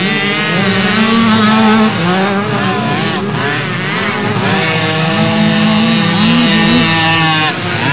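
Several motocross motorcycles running on the track, their engines revving up and dropping back through the gears, several bikes heard at once.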